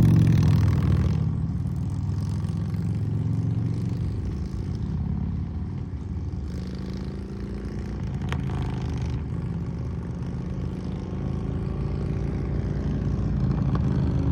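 Harley-Davidson V-twin motorcycle engine running. It eases down over the first couple of seconds, then runs steadily and grows a little louder near the end.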